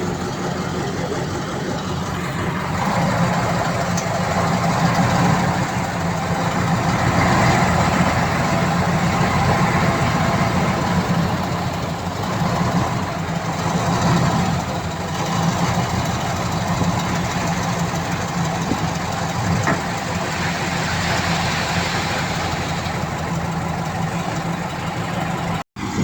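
Heavy diesel engine of earthmoving machinery running steadily, swelling and easing a little in loudness, cut off for an instant near the end.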